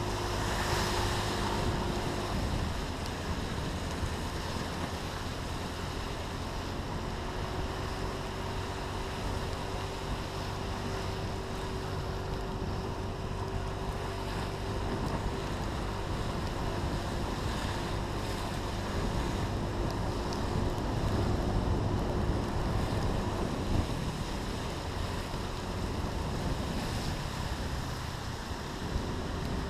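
Steady wind noise buffeting the microphone over a continuous low rumble, with no sharp events.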